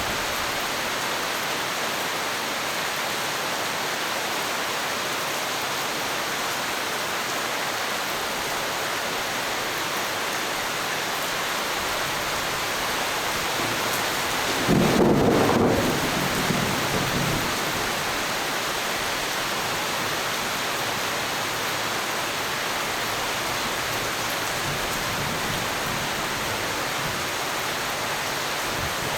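Steady rain hissing, with one clap of thunder about halfway through that lasts about three seconds before fading back into the rain.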